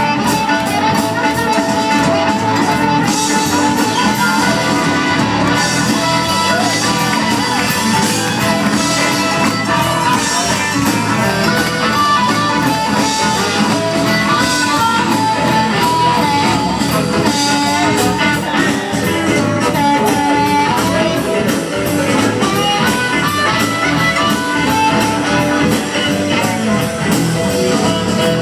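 Live electric blues band playing an instrumental passage with no singing.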